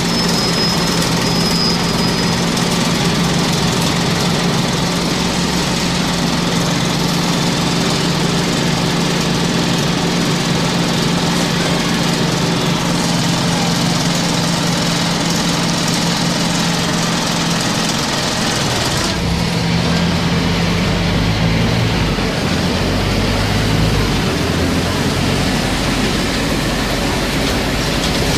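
Scania CN270UB city bus engine running steadily under way. About two-thirds of the way through, the engine note changes and the high hiss falls away.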